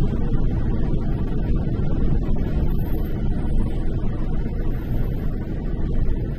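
Car driving at a steady speed, heard from inside the cabin: a steady low rumble of road and engine noise.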